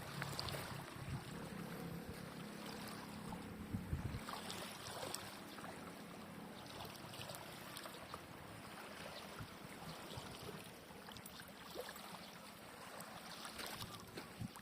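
Small waves washing and lapping at the water's edge, coming in uneven swells with small splashes and clicks. A low hum runs under it for the first four seconds and then stops.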